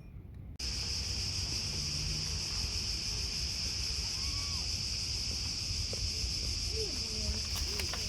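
A steady, high-pitched insect chorus, cicadas or crickets, that cuts in abruptly about half a second in and holds unchanged. A few faint, short sliding calls sound over it near the middle and toward the end.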